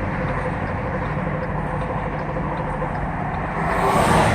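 Steady vehicle noise with a low hum and a faint steady tone, swelling louder about three and a half seconds in, then easing.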